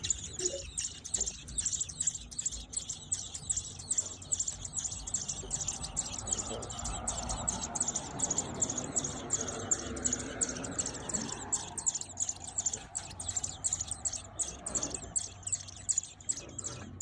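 Ospreys at the nest chirping: a rapid, unbroken run of high chirps, about four a second.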